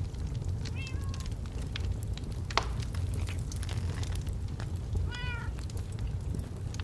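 Logs burning in a fireplace, crackling and popping over a low steady rumble, with one louder pop a little past two and a half seconds in. Two short animal calls cut through, one about a second in and one about five seconds in.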